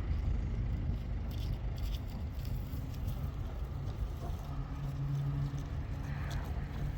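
An engine running steadily with a low hum, the hum growing stronger about four and a half seconds in.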